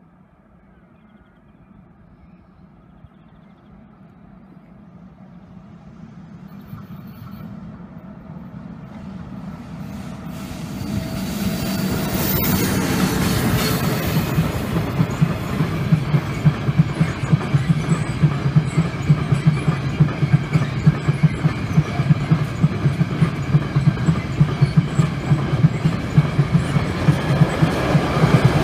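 Freight train hauled by an ÖBB electric locomotive approaching and passing close by. The sound rises from a faint distant rumble to loud about ten seconds in, with a brief high-pitched hiss as the locomotive goes past. After that comes the steady rhythmic clatter of the wagons' wheels over the rail joints.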